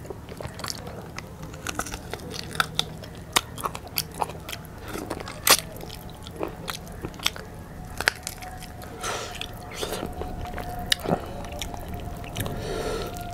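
Close-miked eating sounds of spicy rice and curry being eaten by hand: wet mouth clicks, lip smacks and chewing, with many sharp clicks at irregular intervals. A faint steady tone comes in for the last few seconds.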